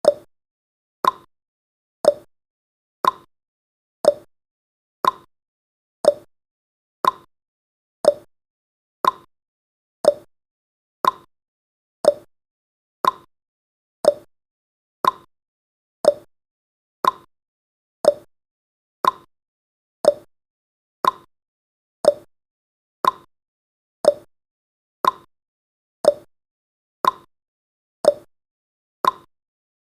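Clock-style tick sound effect of a countdown timer: one short tick every second, seeming to alternate between a lower and a higher tick like a tick-tock.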